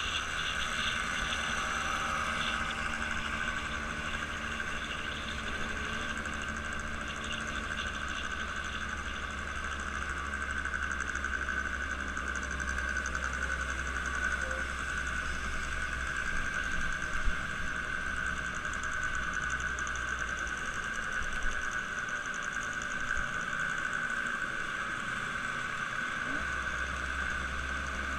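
An engine running steadily at a low, even speed, with a brief knock about seventeen seconds in and a smaller one a few seconds later.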